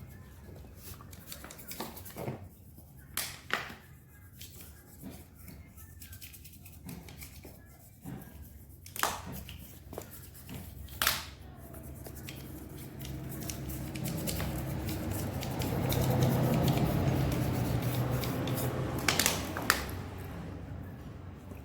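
Scattered metallic clicks and knocks of hand tools on engine parts, then a steady low hum that swells in the second half and fades near the end.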